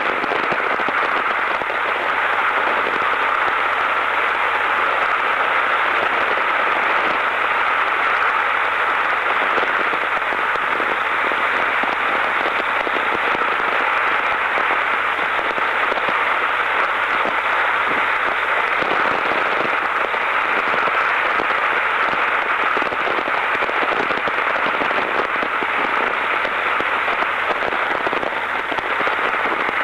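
Steady rushing hiss and crackle from an open Autocom motorcycle bike-to-bike radio link, thin and radio-like. The voice-activated channel is left open by a wrong VOX setting.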